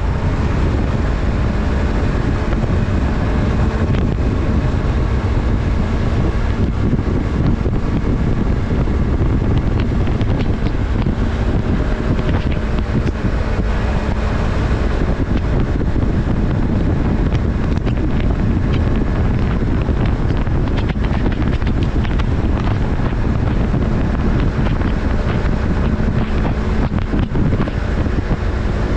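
Yamaha MT-03's parallel-twin engine running at a steady speed while the motorcycle is under way, with heavy wind rush on the microphone.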